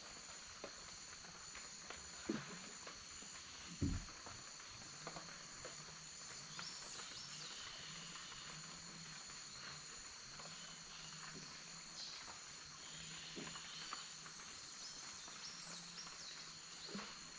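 Rainforest insects buzzing and chirring steadily in a high pitch, with two soft knocks about two and four seconds in.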